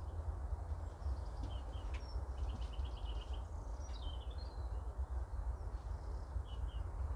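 Small birds chirping in short calls, with a rapid trill about two and a half seconds in, over a steady low rumble.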